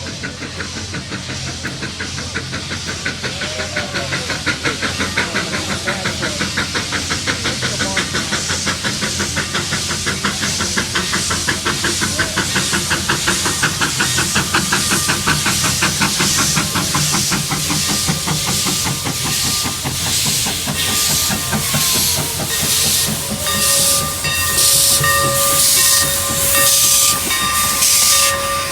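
Steam locomotive running with a fast, even chuff, several exhaust beats a second, getting louder. Near the end the beats slow into broader puffs and steady high tones come in.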